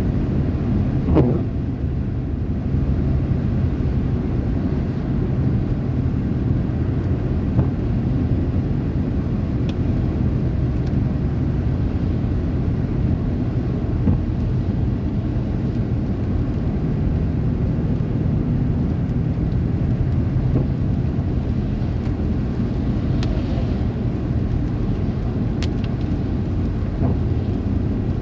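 Steady low engine and road rumble of a moving vehicle, with no pauses or changes.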